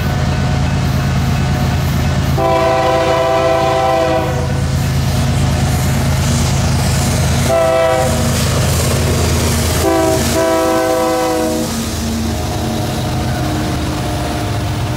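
Diesel locomotives of a loaded BNSF coal train working upgrade, with a steady low engine drone. The locomotive air horn sounds three blasts as the train passes: long, short, long. The loaded coal hoppers roll by with wheel clatter.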